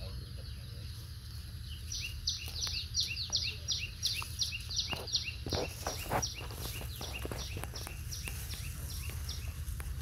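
A bird calling: a long run of short, repeated down-slurred notes, about four a second, that starts about two seconds in and fades out near the end, over a steady low rumble.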